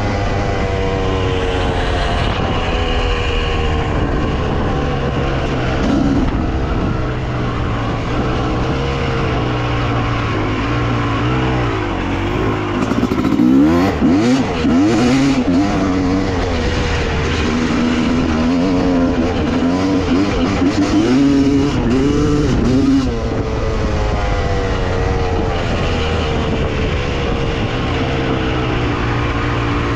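Dirt bike engine running continuously, its pitch rising and falling again and again as the throttle is worked, with quick swoops of revving about halfway through.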